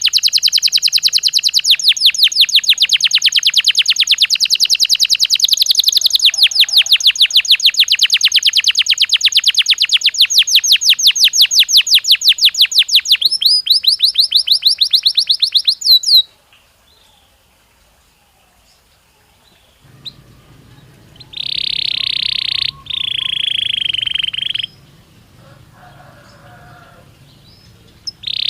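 Belgian canary singing: a long, fast trill of rapidly repeated high notes that changes to a slightly different trill near the middle and stops suddenly. After a pause of a few seconds come two long, held high notes.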